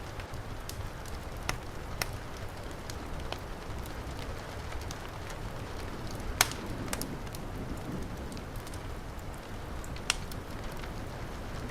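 Heavy rain in a steady hiss with a low rumble, mixed with a wood fire crackling in scattered sharp pops, two of them louder, about six and a half and ten seconds in.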